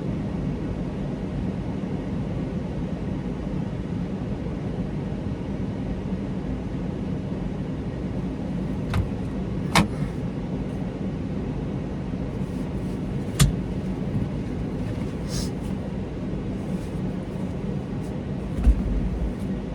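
Semi truck's engine running with a steady low hum, with a couple of short sharp clicks about halfway through.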